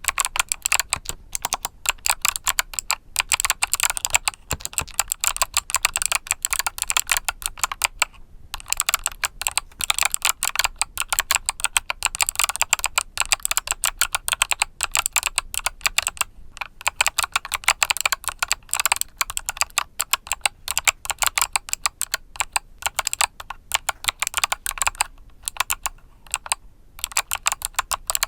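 Fast continuous typing on a mechanical keyboard with Kailh Box Summer switches: a dense stream of sharp, bright key clicks, broken by brief pauses a few times.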